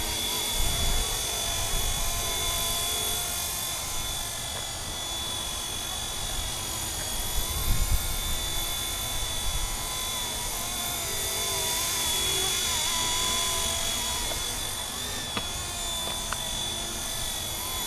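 MD 500 helicopter in flight, a steady high whine over continuous rotor and engine noise, with low rumbling swells about a second in and around eight seconds in.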